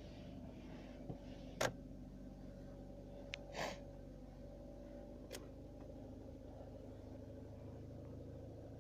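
VW Golf Mk3 1.6 engine idling steadily after a cold start, a low even hum. A few sharp clicks and a brief hiss-like burst fall in its first half, the loudest click about a second and a half in.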